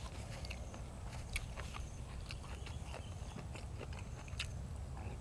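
A person chewing food close to the microphone: irregular wet clicks and small crunches.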